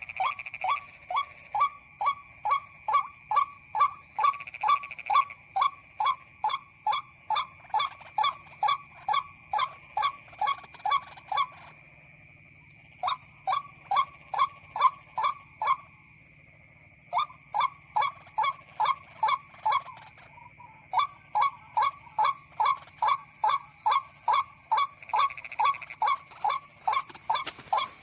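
White-breasted waterhen calls: a fast, monotonous run of harsh repeated notes, about three a second, broken by short pauses three times.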